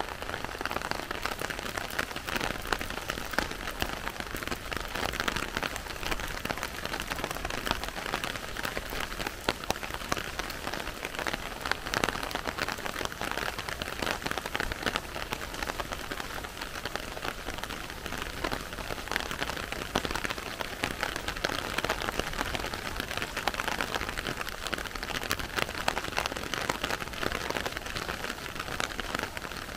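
Steady rain falling, a dense patter of raindrop ticks over an even hiss.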